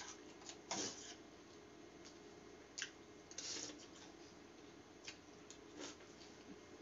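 Quiet eating sounds: a handful of short, sharp mouth clicks and smacks as a mouthful of biryani rice is chewed, over a faint steady hum.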